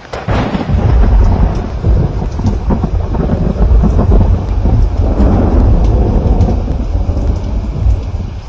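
A thunderclap breaking suddenly over steady rain and rolling on as a long, loud low rumble with swells.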